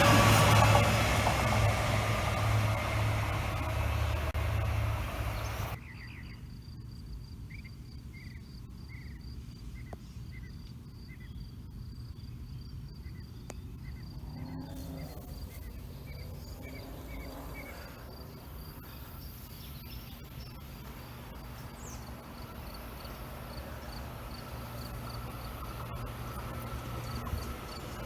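A passing train's rumble for about the first six seconds, cut off suddenly. Then comes quiet outdoor ambience: insects trilling with a steady pulse, a run of short chirps, and a faint low rumble that slowly grows louder toward the end as another train nears.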